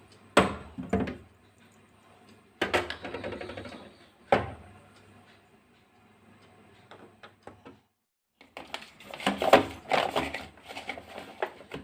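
Bottles and plastic containers being closed and set onto fridge shelves: a few separate knocks and clicks in the first half, then a busier run of clicks and taps in the last few seconds.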